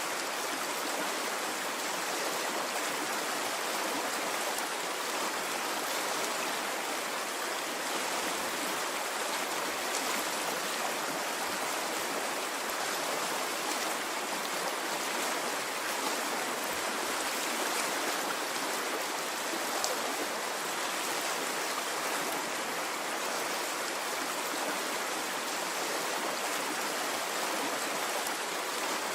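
A stream of water running steadily: an even rushing with no surges or breaks.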